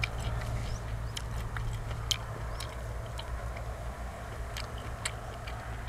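A person chewing a mouthful close to the microphone: scattered wet mouth clicks and small crunches over a steady low rumble.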